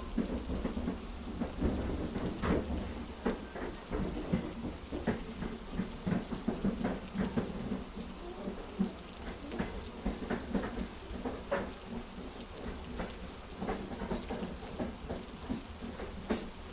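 Heavy rain with many irregular drop strikes over a steady low rumble.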